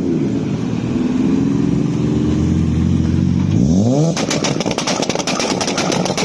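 Car engine being revved hard: a held note, then a quick rise in pitch a little past halfway, then about two seconds of rapid crackling bangs, around ten a second.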